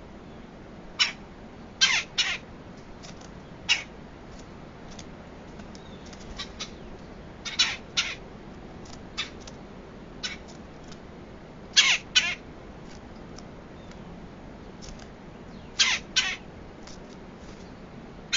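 A woodpecker calling: short, harsh calls repeated every second or few, several of them in quick pairs, with fainter calls between.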